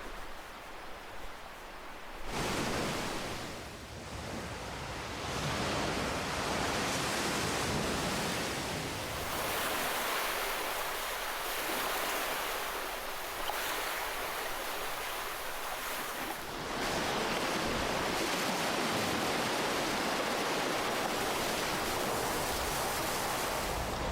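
Ocean surf: waves breaking and washing in as a continuous rush of water. After a softer lull at the start, the rush swells up anew several times.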